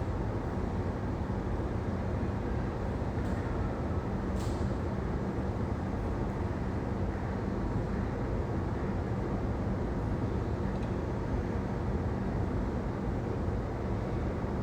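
Steady low engine rumble with a faint hum, holding at one level throughout, and a single light click about four and a half seconds in.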